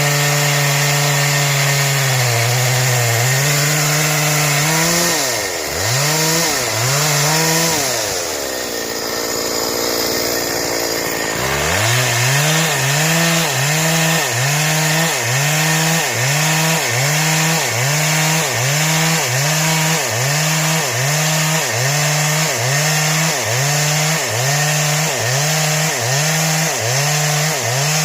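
Two-stroke Stihl chainsaw at high revs, ripping wood into boards. The engine pitch sags under load and recovers in a steady rhythm, a little more than once a second. About a third of the way in, the revs fall away sharply for a few seconds, then climb back to full speed.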